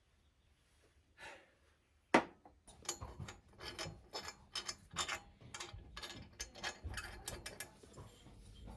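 Hand tools working on a ride-on mower: a sharp metal knock about two seconds in, then a ratchet wrench clicking in quick uneven runs as bolts are turned.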